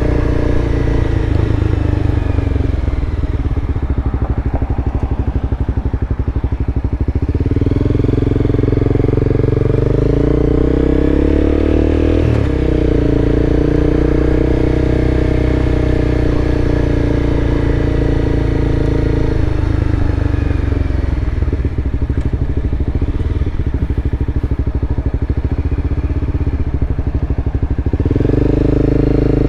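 Motorcycle engine running steadily while being ridden, with wind and road noise. The engine note changes with the throttle about a quarter of the way in, again past the middle, and once more near the end.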